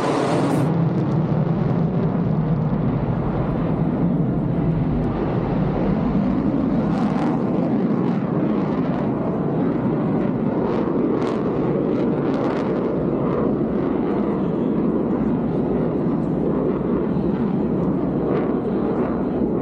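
Military fighter jet's engine noise as a steady rush, its pitch falling right at the start as the jet passes.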